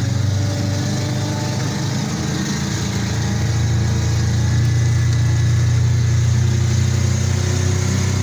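Armoured personnel carrier's engine running, a deep steady drone that grows a little louder about halfway through.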